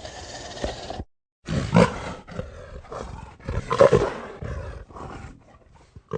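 Several short vocal calls of a large wild animal, the loudest just under two seconds in and about four seconds in, after a brief silent break about a second in.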